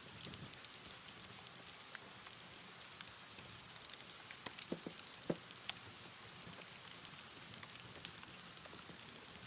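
Wood fire crackling: a steady soft hiss with frequent sharp pops and snaps, a few louder pops clustered about midway.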